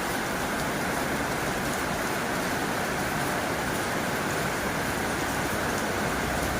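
Heavy rain falling steadily on a tin roof, an even hiss with no let-up.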